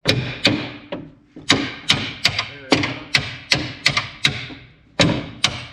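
Hammering on the tractor cab while a door and window are fitted: about fifteen sharp, irregular blows, each with a short ringing decay.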